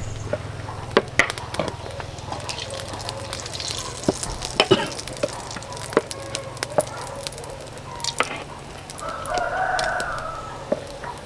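A rooster crows once, about nine seconds in. Scattered sharp clicks and knocks sound throughout over a low steady hum.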